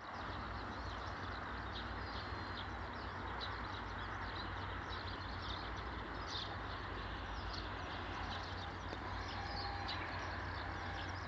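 Wood bonfire burning with a steady hiss and many small, irregular crackles and pops.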